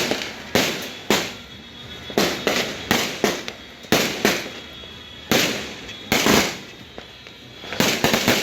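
Fireworks and firecrackers going off in a rapid, irregular string of sharp bangs, each followed by a short echoing tail, with some bangs overlapping.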